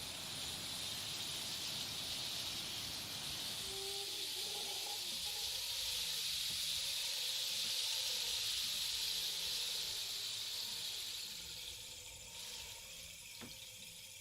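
Rain stick tipped slowly, its pebbles pouring in a long hiss that swells and then fades away near the end, with a few faint whistling tones about four seconds in.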